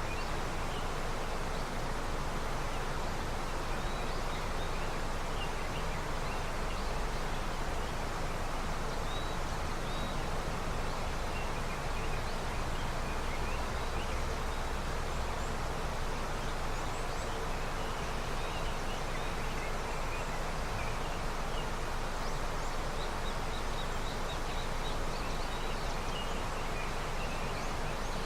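A river running with early snowmelt: a steady, even rush of flowing water. Faint short high chirps come and go over it.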